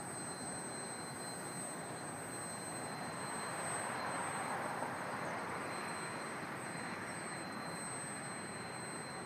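Freight train of Auto-Max autorack cars rolling past: a steady rumble of wheels on rails that swells a little about four seconds in, then eases back.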